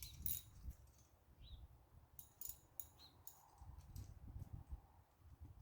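Faint, scattered light clicks of small metal hardware being handled, several in quick succession a couple of seconds in.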